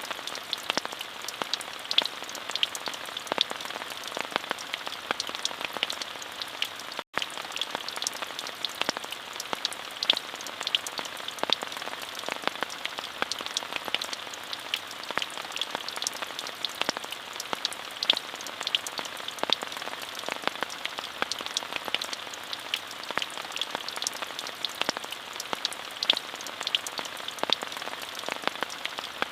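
Steady rain, an even hiss dotted with many sharp individual drop ticks. It drops out for a split second about seven seconds in.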